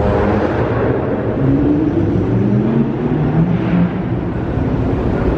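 Car engine running and accelerating, its pitch climbing for about two seconds over a steady low rumble.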